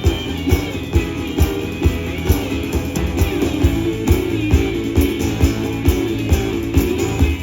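Live blues band playing an instrumental passage between sung verses: guitar over a steady drum beat.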